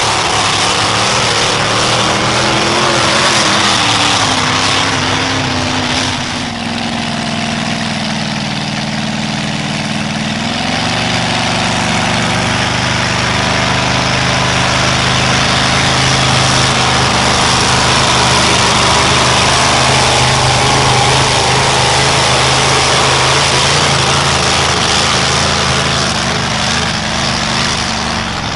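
A pulling truck or tractor engine running loud. Its pitch sinks slowly over several seconds, steps up about ten seconds in, then holds steady.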